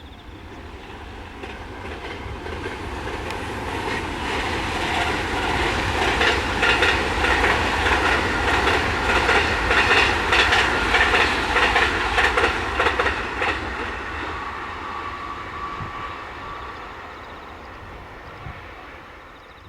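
A train passing on the JR Hokuriku Main Line. It grows louder as it approaches, then gives a fast run of wheel clacks over the rail joints as the cars go by, and fades away as it leaves.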